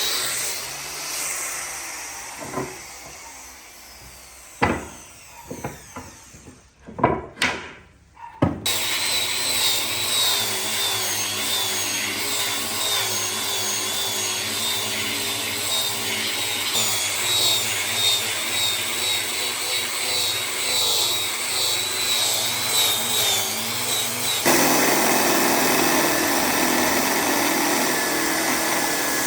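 A handheld power tool working wood: its running sound fades away over the first few seconds, a handful of sharp knocks follow, then it runs steadily again with a wavering whine, its sound changing abruptly a few seconds before the end.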